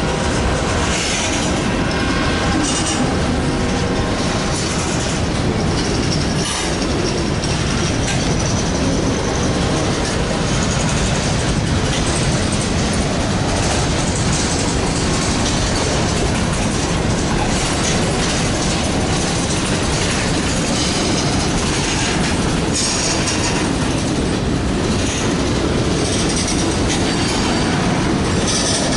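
Freight train of covered hopper cars rolling past at close range: a steady, loud rumble and clatter of steel wheels on rail, with a faint high wheel squeal at times.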